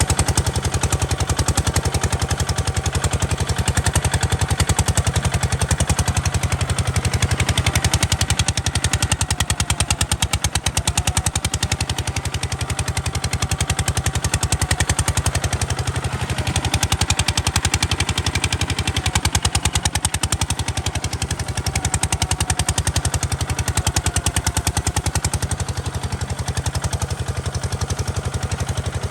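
Kubota RT140 DI single-cylinder diesel engine running steadily, a fast even train of sharp exhaust beats.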